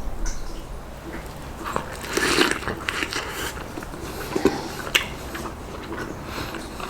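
A person biting into and chewing tandoori turkey: irregular crunches and sharp snaps, loudest about two and a half and about four and a half seconds in.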